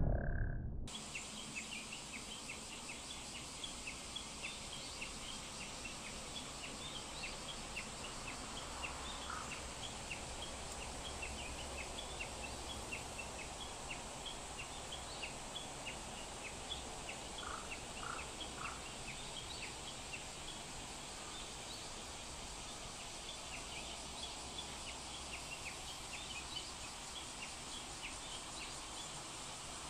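Faint outdoor ambience of small birds chirping, with many short high chirps scattered throughout and a low steady rumble underneath. The tail of a music track fades out at the very start.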